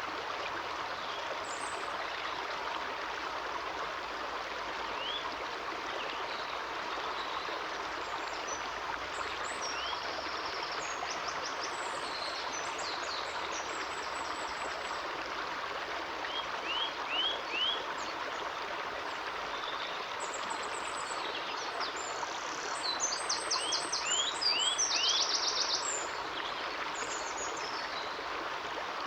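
A stream running steadily, with small birds calling over it: short rising chirps in quick runs of three or four, and fast high trills. The calls come and go and are busiest near the end.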